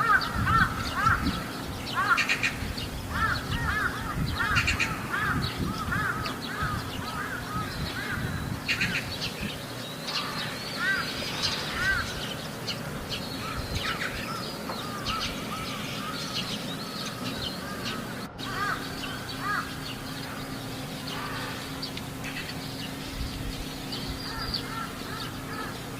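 Crows cawing, a long run of short repeated caws that come thick in the first few seconds and again around the middle, thinning out toward the end.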